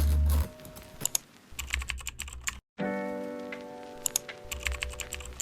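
Rapid light clicks like keyboard typing over background music, with a brief cut to silence about halfway through.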